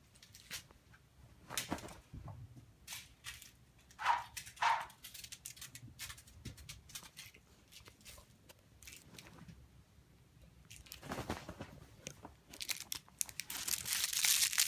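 Intermittent crinkling and rustling of a crinkly cat toy being handled, with scattered light clicks. A brief louder sound comes about four seconds in, and the rustling turns denser near the end.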